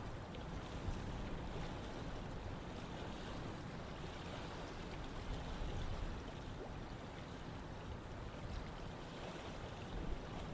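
Running water flowing steadily, an even, continuous wash of noise.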